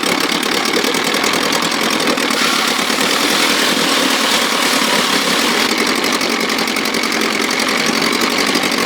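1957 Sea King 5 hp two-stroke outboard motor running steadily and smoothly, sounding sweet now that it is gravity-fed with fuel. It gets a little louder for a few seconds in the middle.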